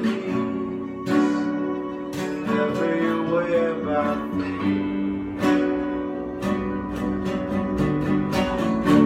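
Acoustic guitar strummed in an instrumental passage between sung lines, chords ringing with regular strokes.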